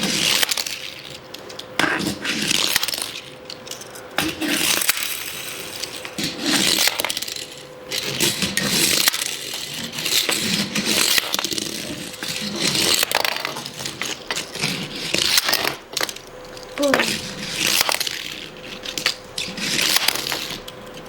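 Small toy cars rattling and rolling over a hard track, with repeated clinks and clattering impacts as they crash, every couple of seconds, over a faint steady hum.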